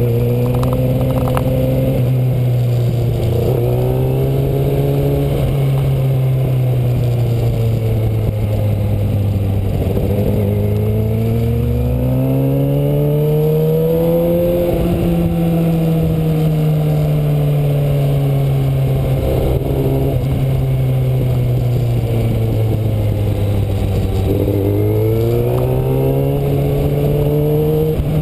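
Kawasaki Ninja ZX-6R inline-four sport-bike engine while riding, its pitch rising and falling repeatedly as the revs change. The revs climb around the middle and again near the end, easing off in between, over a steady rushing noise.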